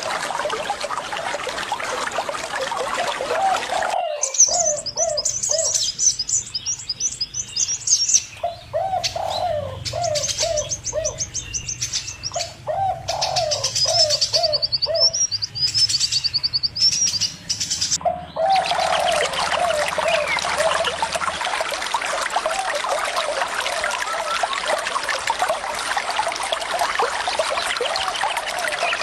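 Birds calling over trickling water: short low calls repeated in quick groups, with high chirping from other birds in the middle. The water sound drops out abruptly about four seconds in and returns abruptly about eighteen seconds in.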